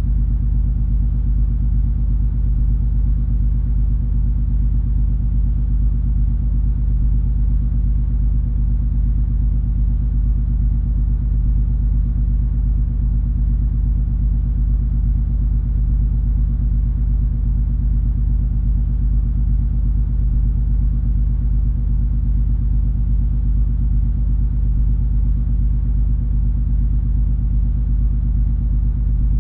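Steady low drone of the cruise ferry MS Color Magic under way: an even engine hum with a deep rumble that does not change.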